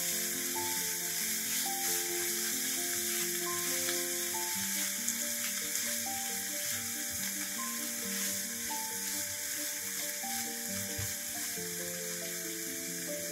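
Shredded cabbage, carrot and tomato sizzling steadily in a frying pan as they are stirred with a spatula, under background music with a slow melody.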